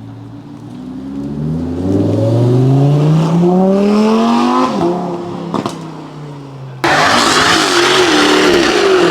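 A car engine accelerating, its note climbing steadily for a few seconds before it drops back. About seven seconds in, a much louder, rougher engine sound cuts in suddenly and carries on.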